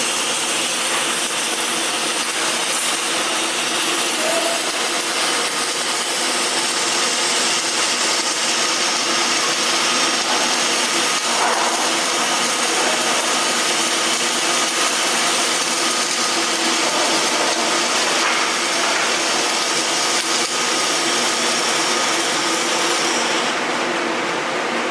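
Steady, loud power-tool noise with a constant whine running through it, unbroken throughout.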